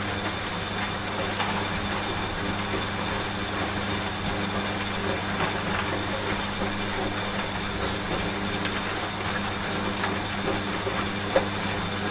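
A washing machine running with a steady low hum, over rain with many scattered drop ticks. One sharp click comes near the end.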